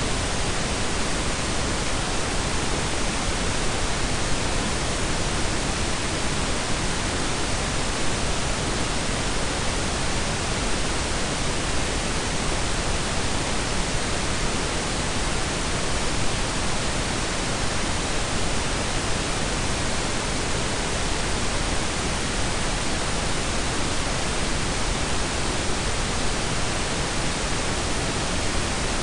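Steady synthetic blend of pink and brown noise, an even unbroken hiss with a deep rumbling low end.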